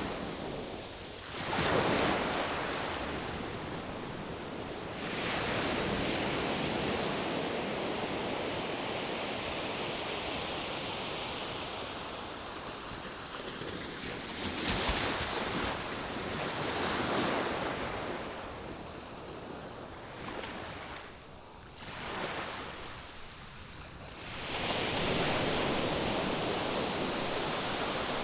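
Ocean surf on the shore: a steady hiss of breaking waves that swells and fades every few seconds, with short lulls between.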